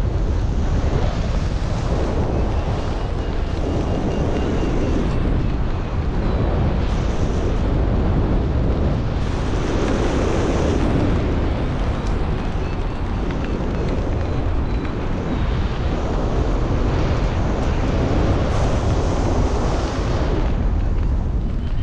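Steady rush and buffeting of airflow over the microphone in flight, heavy in the low end, swelling and easing without a break.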